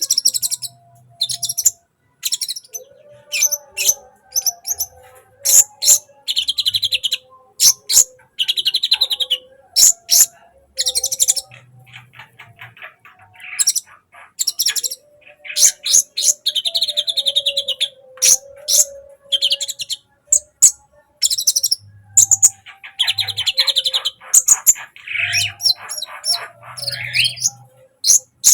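A sunbird ('kolibri') singing a long, varied chattering song of sharp high chirps and rapid buzzy trills, phrase after phrase with only short pauses.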